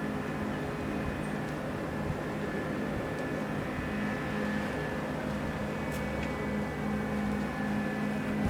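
Steady mechanical hum of engines running at idle, with a few held tones over a low drone.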